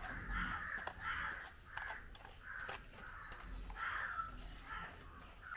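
Crows cawing in a steady series, about two caws a second.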